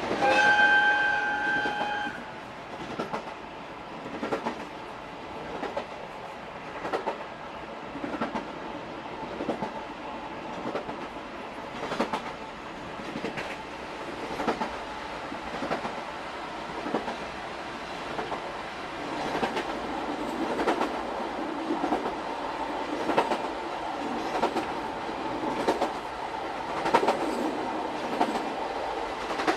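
EF58 electric locomotive's air whistle blowing one short steady blast near the start. After it come the wheels of an old-type passenger coach clicking over rail joints, a pair of clacks about every second and a half, over a steady running rumble.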